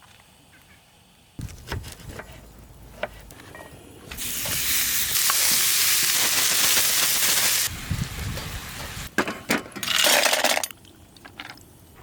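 Food sizzling in a hot frying pan, in two stretches: a long loud one about four seconds in that cuts off abruptly, and a shorter one near ten seconds, with scattered clicks and knocks of utensils around them.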